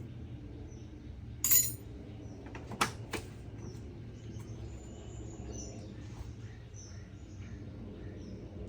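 Repair work sounds: a short loud hiss, then two sharp knocks about a third of a second apart, over a low steady hum.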